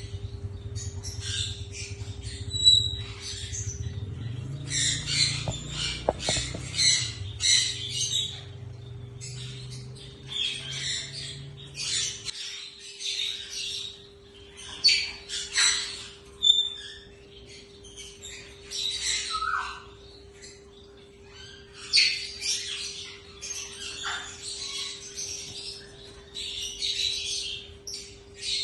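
A pair of yellow Indian ringneck parakeets squawking and chattering in short, harsh, repeated calls, over a steady low hum.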